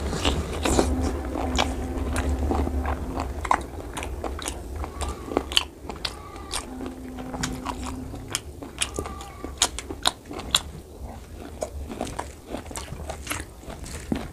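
A person biting and chewing pork curry meat and rice eaten by hand, with many sharp mouth clicks throughout.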